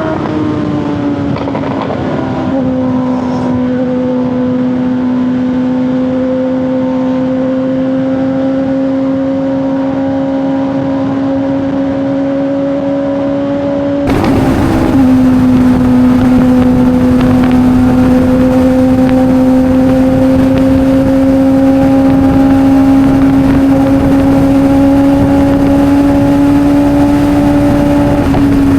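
Sport motorcycle engine running at a steady high pitch while riding, with wind rush. The note drops a little about two seconds in and holds. After a cut partway through, a louder stretch of similar steady running follows.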